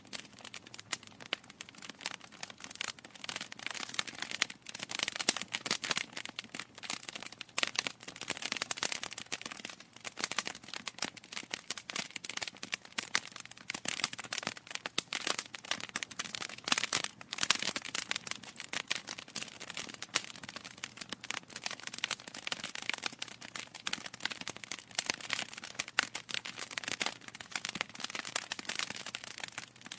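Wood fire burning in a fireplace: a dense, continuous crackle of small pops and snaps from the burning logs.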